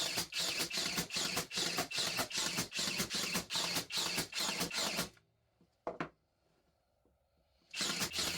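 Rapid back-and-forth scraping strokes of a hand tool working wood, about four to five strokes a second. They stop about five seconds in, a single click follows, and the strokes start again near the end.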